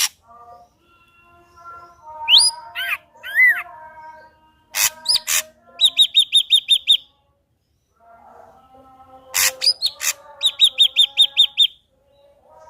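Ashy drongo singing: rising and bending whistles, several harsh clicking notes, then a quick run of about eight ringing notes. The same pattern of clicks and a fast note run comes round a second time.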